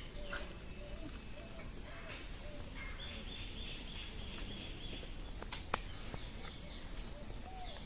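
Birds calling and chirping: a short low call repeating about twice a second, with higher chirps and a held high trill over it, and a sharp click about five and a half seconds in.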